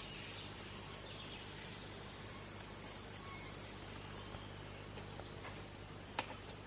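Steady high-pitched insect trilling, like crickets, over a low steady hum, with a single sharp click about six seconds in.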